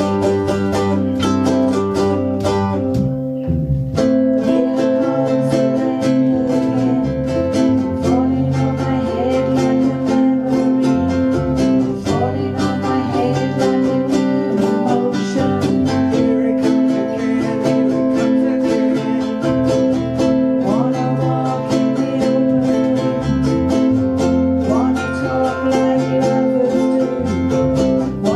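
A ukulele band playing live: several ukuleles strummed together in steady chords, with a brief break about three seconds in.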